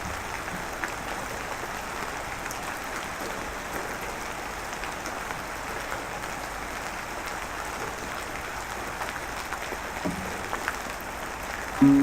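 Steady rain falling, an even hiss with a few faint drop ticks scattered through it. Music comes in right at the very end.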